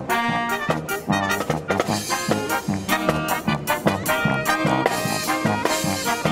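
Marching brass band of trombones, trumpets and drums playing a swinging, jazzy tune with a steady beat of low notes and cymbal strikes.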